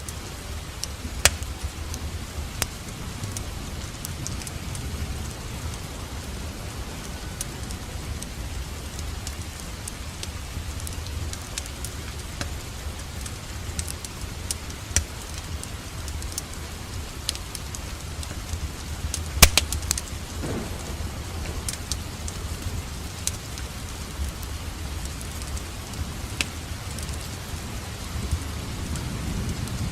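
Steady rain mixed with a fireplace crackling, with scattered sharp pops over an even hiss and a low rumble; one louder pop comes about two-thirds of the way through.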